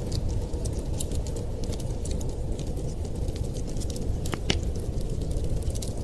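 Wood fire crackling in a fireplace: frequent small sharp crackles over a steady low rumble, with a couple of louder pops about four and a half seconds in.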